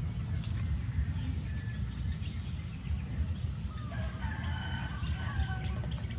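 Chickens in the background with a rooster crowing about four seconds in, over a steady high-pitched buzz and a low rumble.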